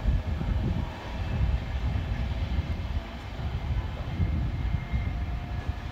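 Class 390 Pendolino electric train running away down the line: a steady, heavy rumble of wheels on rail.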